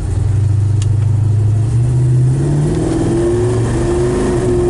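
El Camino's Chevrolet crate engine with FlowMaster mufflers, heard from inside the cab, pulling away out of a U-turn. Its pitch rises about two seconds in, then holds steady with a faint whine on top.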